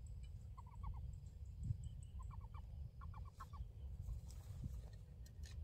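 Bird calls: short runs of three to five quick notes, repeated several times, with fainter high-pitched chirps, over a steady low rumble.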